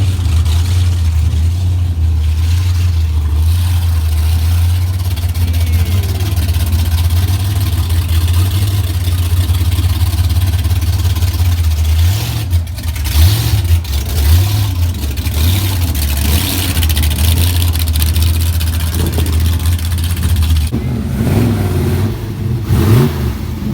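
Car engine idling with a loud, steady low rumble, revved briefly a few times about halfway through and again near the end.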